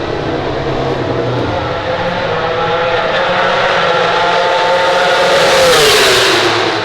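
A MotoGP racing motorcycle's 1000cc four-cylinder engine at high revs, approaching and growing louder, then passing close by with its note dropping sharply in pitch about six seconds in.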